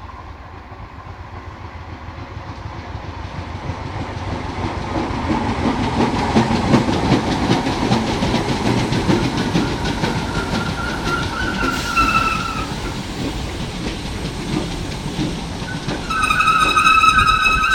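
Passenger train pulling into a station: rumble and wheel clatter on the rails build up over the first few seconds and stay loud. The brakes squeal briefly about twelve seconds in, then again, longer and louder, near the end as the train slows.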